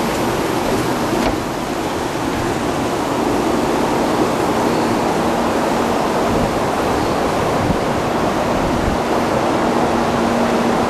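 Taiwan High Speed Rail train running, a steady rushing noise with a faint hum coming and going.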